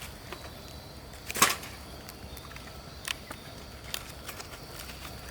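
A few sharp clicks or pops, the loudest about one and a half seconds in and fainter ones about three and four seconds in, over a steady low hum.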